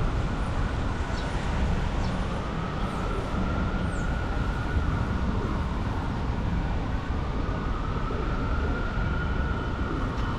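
Steady city traffic noise on rain-wet streets, with an emergency vehicle siren wailing slowly up and down through it.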